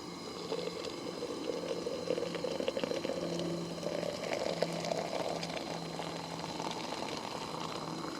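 Water bubbling and splashing, with a crackly, uneven texture that swells in the middle.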